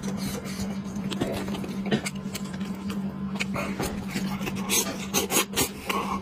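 Close-miked eating sounds: chewing with many small, sharp mouth clicks and crackles, over a steady low hum.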